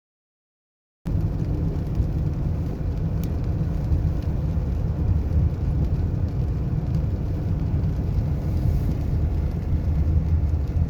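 Steady low road rumble of a car being driven, starting abruptly about a second in after silence.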